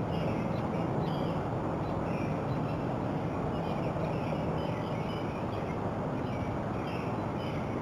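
Birds chirping repeatedly in short high calls, about once or twice a second, over a steady background hiss.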